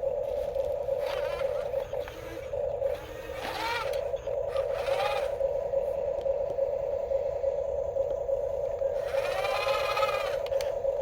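Steady electric motor whine from a radio-controlled construction toy, with short, higher-pitched wavering squeals coming and going over it several times.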